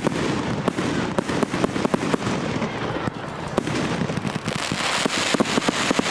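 Fireworks display: a fast, irregular barrage of bangs and pops from aerial fireworks, with a hiss that grows stronger from about four and a half seconds in.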